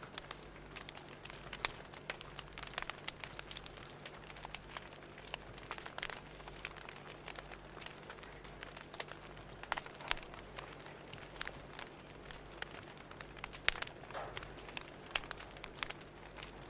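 Wood fire crackling: irregular sharp pops and snaps, several a second, over a steady soft hiss and a faint low hum.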